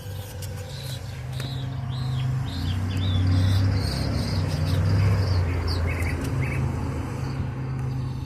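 Small birds chirping with many short, quick rising-and-falling notes. Underneath is a louder, steady low hum that swells in the middle.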